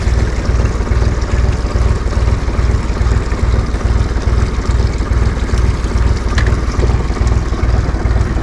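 Motorboat, a Yamaha FAST26, running under way: a steady, loud engine and water noise with a low rumble that pulses several times a second.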